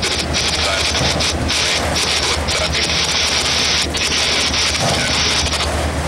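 Freight train rolling past at speed: a steady rushing of wheels on rail, broken by short dips about every second as the cars go by, over a low rumble.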